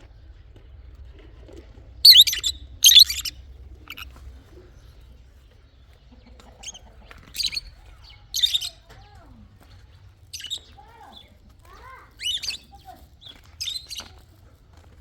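Small birds chirping in short, bright bursts, about eight in all, the loudest two about two and three seconds in, over a faint steady low hum.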